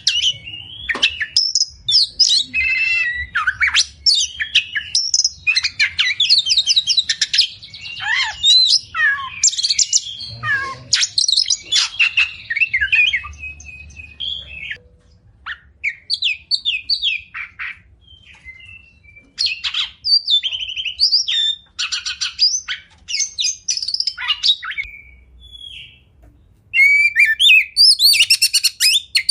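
Oriental magpie-robin (kacer) singing a long, varied song of clear whistles, rapid chattering trills and sharp high notes. It thins out in the middle and again shortly before the end, then returns with a loud, sharp high-pitched burst.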